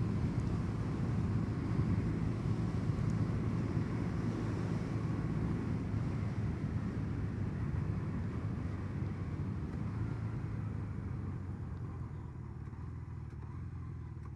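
1984 Honda CB450SC Nighthawk's parallel-twin engine running steadily while being ridden, growing gradually quieter toward the end.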